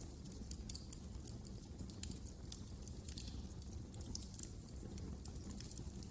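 Fire crackling in a fireplace: a steady low rumble of burning with irregular sharp pops and snaps scattered throughout.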